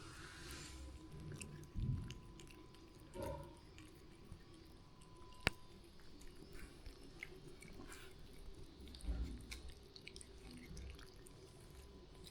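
Soft chewing with many small scattered clicks and one sharp click about five and a half seconds in.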